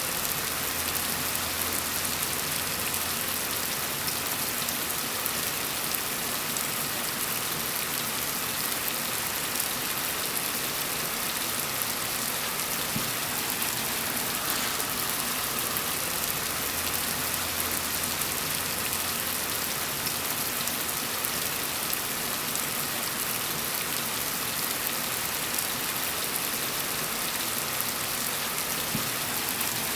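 Steady rain falling, an even, dense hiss of many drops with no breaks or changes.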